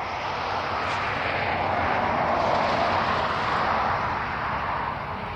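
Rushing noise of a vehicle passing by, swelling to its loudest about halfway and fading toward the end.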